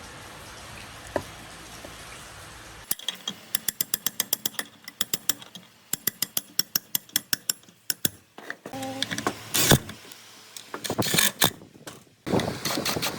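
Workshop handwork on a machine's metal parts: after a faint steady hum, a run of rapid, even metallic clicks, about five a second, like a ratchet being worked, then a few knocks, and a steady mechanical noise that starts suddenly near the end.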